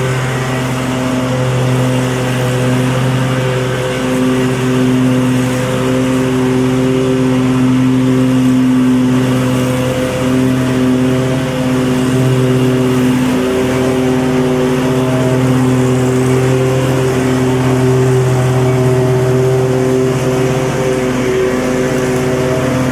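Lawn mower engine running steadily at an even pitch, its level wavering slightly.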